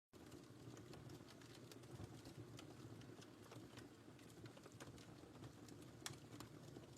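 Faint wood fire in a fireplace crackling: irregular small pops and snaps over a low steady rumble of burning.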